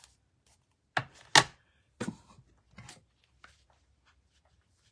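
A few sharp taps and clacks of hard stamping supplies being handled and set down on a craft desk, the loudest about a second and a half in.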